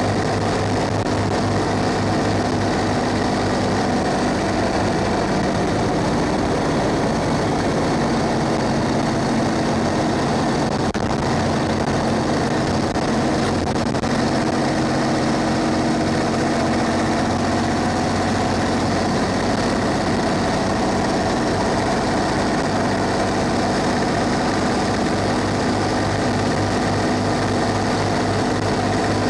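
Cummins ISB 6.7-litre diesel engine of a school bus running steadily. Its note shifts for a stretch between about 3 and 18 seconds in, then settles back to a low, even pulse.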